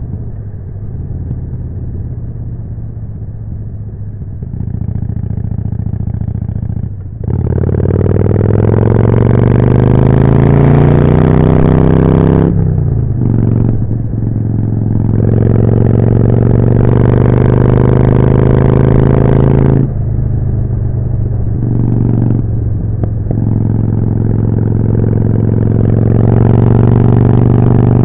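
Harley-Davidson Forty-Eight's 1200 cc V-twin through a Jekill & Hyde exhaust, running steadily at part throttle at first. About a quarter of the way in it opens up and accelerates hard, the pitch rising, then drops briefly at a run of gear changes. It runs loud and steady in higher gears, with a few more shifts past the middle.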